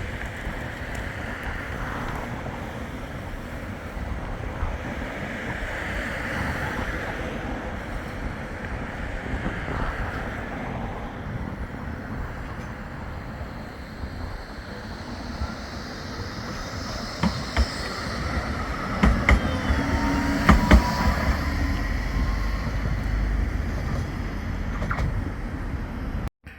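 Bombardier Flexity 2 tram running along the track, a continuous rumble that grows louder around twenty seconds in, with several sharp clicks and a faint rising whine there.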